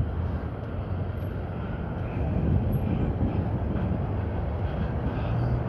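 Steady low rumble of passing road traffic, with a hum that swells slightly near the end.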